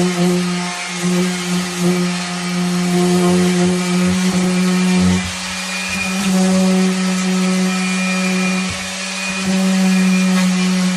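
Random orbital sander running on wood: a steady motor hum with sanding hiss, dipping briefly twice, around the middle and near the end, as the sander is eased off or moved across the piece.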